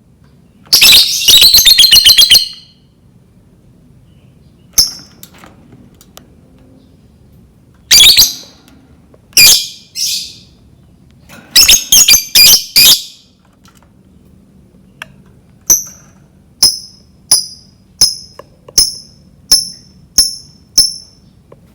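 Lovebird calling: a rapid, rattling chattering trill (the 'ngekek') about a second in, loud shrill calls scattered through the middle, then a run of about nine short, high chirps at an even pace near the end.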